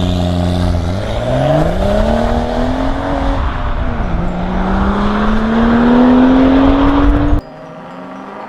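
Car engine accelerating hard: its pitch climbs for about three seconds, drops sharply at a gear change about four seconds in, then climbs steadily again before cutting off abruptly.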